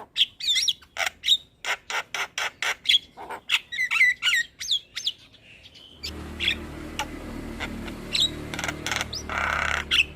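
Javan myna singing: a rapid, varied run of sharp clicks, harsh chatter and short whistled notes. About halfway through, a steady low hum comes in beneath the song, and a harsh noisy burst sounds near the end.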